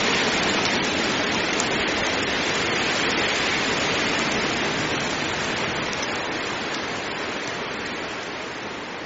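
Heavy rain falling, a steady dense hiss that slowly fades out over the second half.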